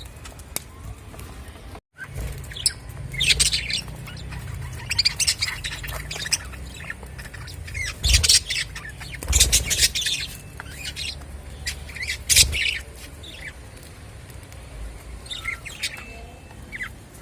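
Budgerigars chirping and squawking in bursts, after a brief dropout about two seconds in.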